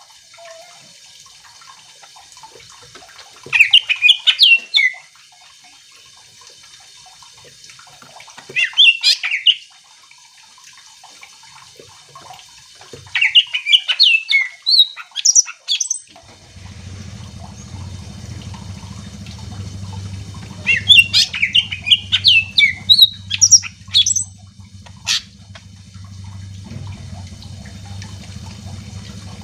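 Cucak ijo (green leafbird) singing in repeated bursts of quick, chattering high notes, about five phrases a few seconds apart. A steady low hum joins about halfway through.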